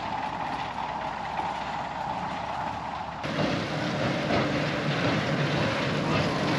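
Steady vehicle noise, with an abrupt change about three seconds in, where the sound becomes fuller and a little louder.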